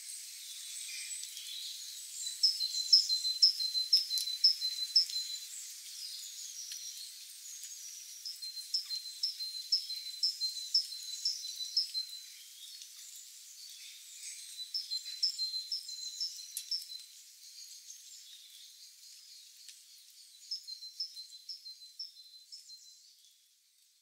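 A songbird singing: a run of quick, evenly repeated high notes lasting a couple of seconds, sung four times, with fainter chirps between the runs.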